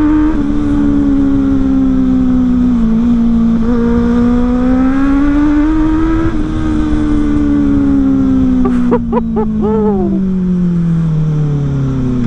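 Benelli motorcycle with a modified exhaust accelerating through the gears, its engine note climbing and dropping back at each shift, then falling steadily as it slows down. A quick string of exhaust pops comes about nine seconds in, during the slowdown.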